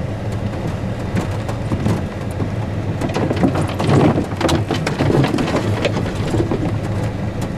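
Truck engine running low and steady, heard from inside the cab as the truck works along a rough woods track, with a clatter of knocks and scrapes that is busiest about three to five seconds in.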